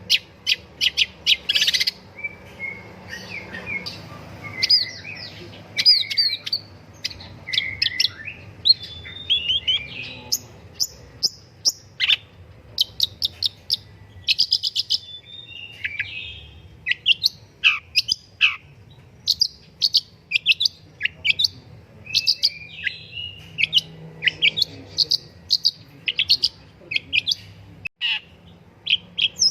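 Long-tailed shrike singing a fast, varied song of sharp chirps, quick rattling strings and short downward slurs, with hardly a pause.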